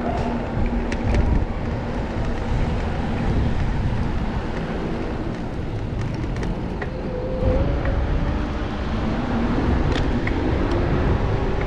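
City street traffic heard from a moving bicycle: car engines running and passing over a steady low wind rumble on the microphone, with an engine tone rising near the end.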